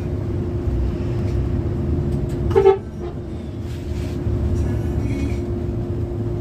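Bus rumbling along with a steady hum, and one short vehicle horn toot about two and a half seconds in.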